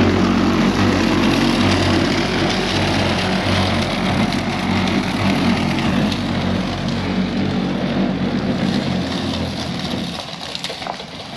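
A vehicle engine running with a steady low drone and road noise, easing off near the end.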